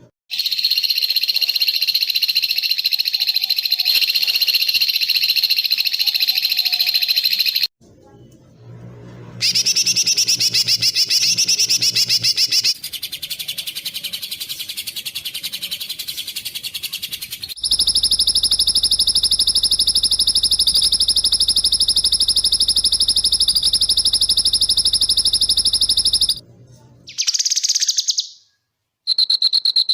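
A spliced sequence of songbird recordings of fast, tightly repeated high chirping calls, the rapid-fire 'tembakan' phrases used to train competition songbirds. It changes abruptly from one clip to the next every few seconds, and about two-thirds in runs as a long, steady, even high trill for about eight seconds.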